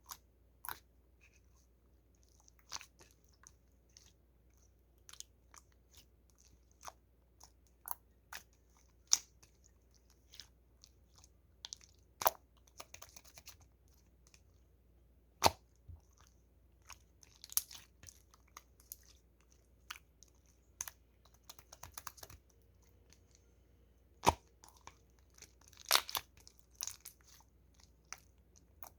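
Clear slime being played with by hand, giving scattered sharp pops and clicks at irregular intervals, with a few short crackly runs.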